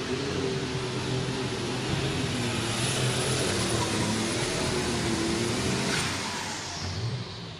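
Alcohol-fuelled super stock pulling tractor running flat out under load down the track, its turbocharged engine note wavering, with a thin high turbo whine over it. The sound drops away about six seconds in.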